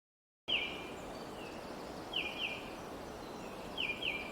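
Outdoor ambience: a steady hiss of background noise with a small bird giving short, high chirps, mostly in quick pairs, a few times. It starts after about half a second of dead silence.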